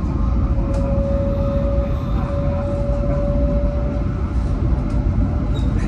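Inside the cabin of an E7/W7-series Hokuriku Shinkansen train running at speed: a steady, dense low rumble, with a thin whine that rises slightly in pitch and fades near the end.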